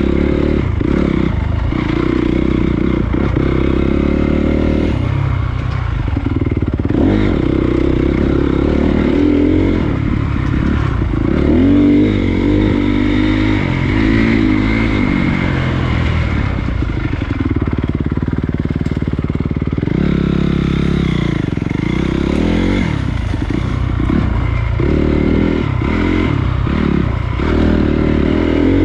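Honda CRF250 dirt bike's single-cylinder four-stroke engine running under load on a trail, its revs rising and falling again and again as the throttle is worked.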